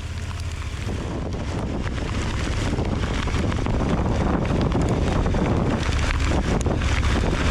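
Wind rushing over the microphone of a moving KTM 1290 Super Adventure motorcycle, with the bike's V-twin engine running as a steady low hum underneath. The noise grows gradually louder.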